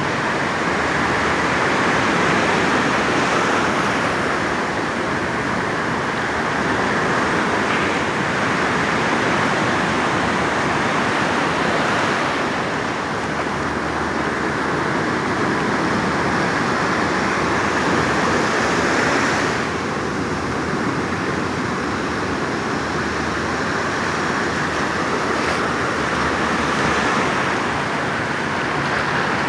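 Rough, stormy sea surf breaking and washing on a beach: a continuous rushing that swells and eases every several seconds.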